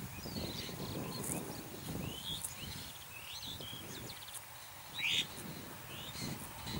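Several small birds chirping and calling in quick short notes, with one louder call about five seconds in, over a low, uneven background rumble.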